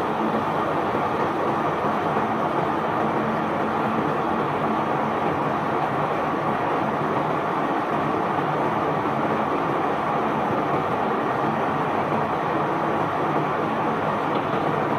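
Barge bulk-cargo unloading machinery running steadily, a constant low hum under an even rushing noise of the cargo flowing out.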